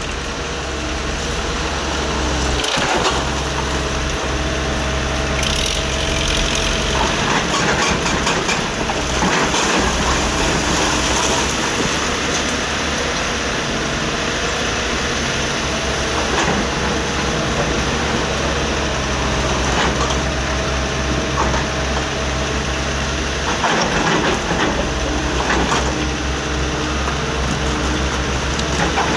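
Excavator engine running steadily, with a held whine that comes and goes and scattered knocks and crunches throughout.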